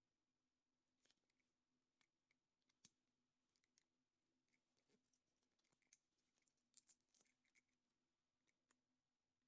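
Near silence, with faint scattered clicks and light rustles of small objects being handled and a brief cluster of clicks about seven seconds in.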